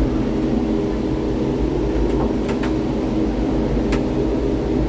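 Steady mechanical hum and low rumble of the Gateway Arch tram capsule as it climbs, heard from inside the small capsule, with a couple of faint clicks.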